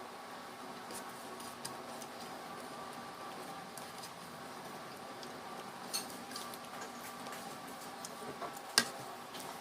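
Cutlery clinking against a plate during a meal: scattered light clicks, a sharper clink about six seconds in and the loudest one near the end, over a steady background hum.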